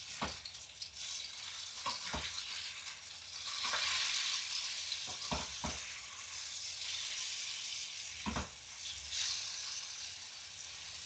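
Breaded chicken pieces frying in shallow oil in a pan, a steady sizzle that swells for a couple of seconds near the middle. A few light knocks come through it.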